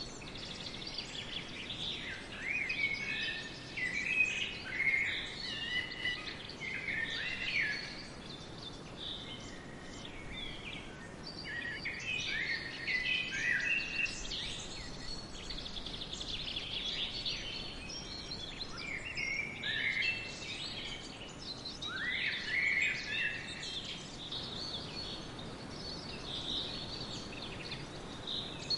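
Several songbirds singing and chirping in repeated bouts, over a steady background hiss of outdoor ambience.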